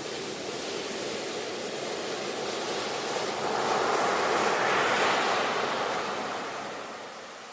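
Ocean surf: a wave swells and breaks about halfway through, its hissing wash peaking and then fading away near the end.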